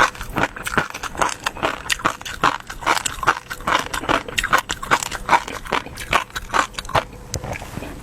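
Close-up eating sounds: a person chewing and biting, with a fast, irregular run of small wet clicks and crackles.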